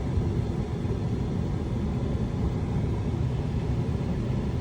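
Steady low vehicle rumble, even throughout with no distinct knocks or changes.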